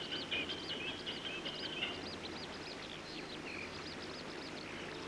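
Birds chirping outdoors in many quick, short, repeated calls over a steady background hiss. A thin, steady high whine runs underneath at first and stops about two seconds in.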